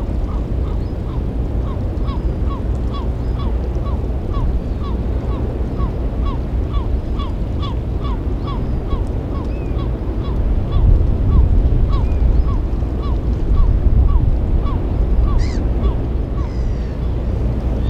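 A bird calling over and over, short falling calls about two or three a second, stopping near the end, over a steady low rumble.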